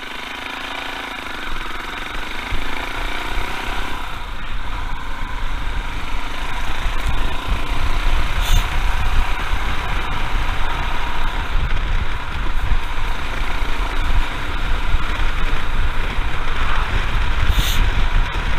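Royal Enfield Himalayan's single-cylinder engine running under way, mixed with rumbling wind noise on the microphone; the sound grows louder over the first several seconds as the bike picks up speed, then holds steady.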